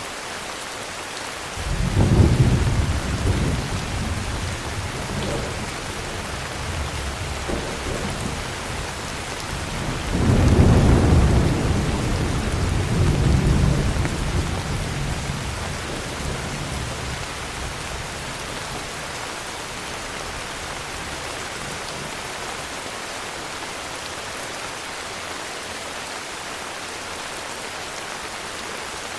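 Steady heavy rain with rolling thunder. One deep rumble breaks about two seconds in and fades slowly. A louder, longer rumble comes about ten seconds in, swells again a few seconds later, then dies away, leaving only the rain.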